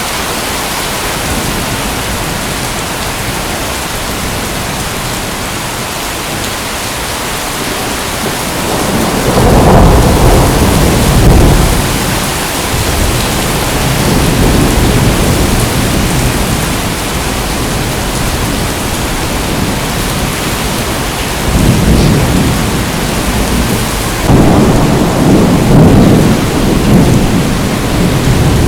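Steady heavy rain hissing, with rolling thunder rumbling in about a third of the way through and swelling again twice near the end.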